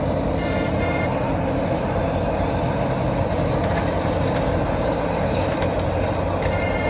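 Road milling machine grinding up the old asphalt, its diesel engine running steadily under the rumbling grind of the cutter drum. A faint brief high tone sounds near the start and again near the end.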